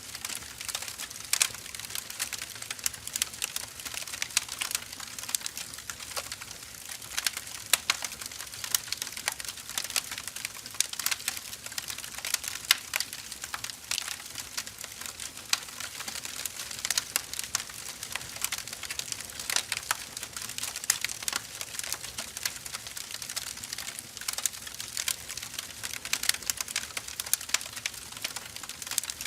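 Firewood burning, with dense, irregular crackles and pops over a steady hiss.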